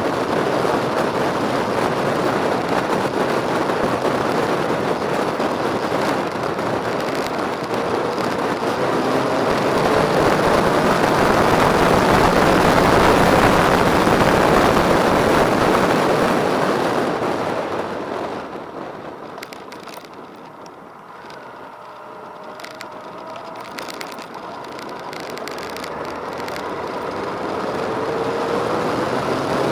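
Motorcycle running under way, engine and wind rush as a steady noise that fades markedly about two-thirds through and builds again near the end.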